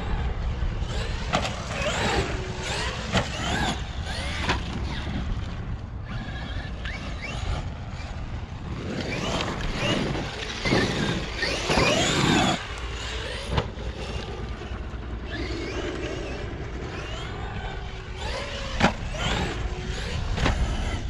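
Traxxas XRT RC truck's electric motor whining up and down with the throttle as it drives, over a steady low rumble. Occasional knocks come from the truck, the loudest near the end.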